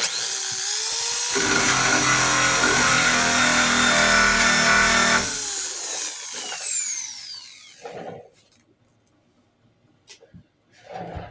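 Power tool with a wire wheel spinning up with a rising whine, then scrubbing corrosion off a steel body panel for about four seconds, and winding down with a falling whine.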